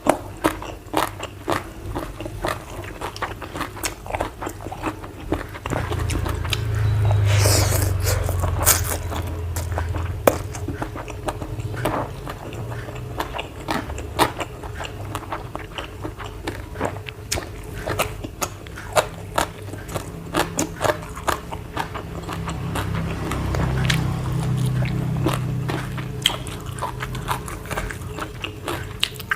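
Close-miked chewing and crunching of food, with many short crisp bites throughout. A low hum comes in twice, from about six to ten seconds in and again near the end.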